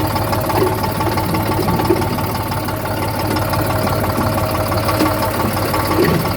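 Farm tractor's diesel engine running steadily at an even speed, with no sharp knocks or changes in pitch.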